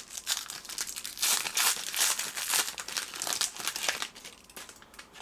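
A trading-card pack's wrapper being torn open and crinkled in the hands, a dense crackling that dies away about four seconds in.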